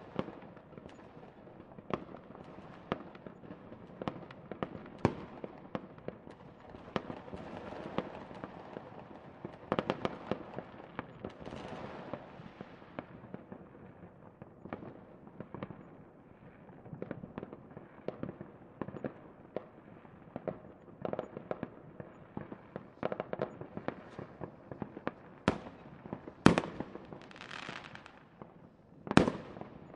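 Fireworks display: a run of sharp bangs and pops over a continuous crackling hiss, with two of the loudest bangs near the end.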